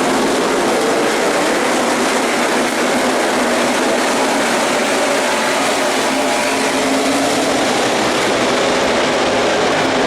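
NASCAR Sprint Cup stock cars' V8 engines running at speed as a pack streams past, a loud, unbroken wall of engine noise with faint pitches drifting up and down.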